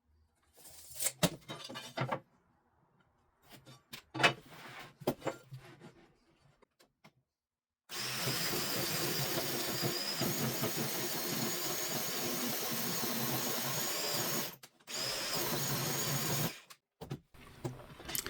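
A few knocks of wood being handled, then an electric power saw running and cutting wood for about seven seconds. It stops briefly, then runs again for a couple of seconds.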